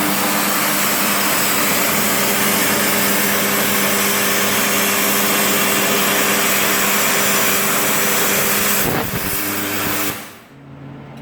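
An 80 A Migatronic plasma cutter's arc cutting 12 mm steel: a loud, steady hiss with a low hum beneath it. The hiss cuts off suddenly about ten seconds in, leaving a quieter hum.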